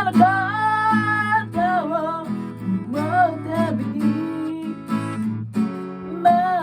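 A voice singing a ballad with acoustic guitar accompaniment, the guitar strummed in chords under long, gliding sung notes.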